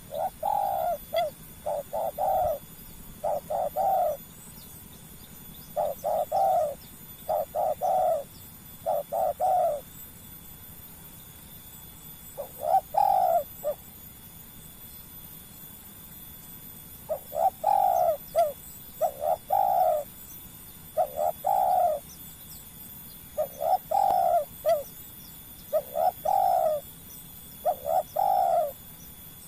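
Spotted dove (tekukur) cooing: phrases of two or three low coos repeated every second or two, with pauses of a few seconds about a third and halfway through.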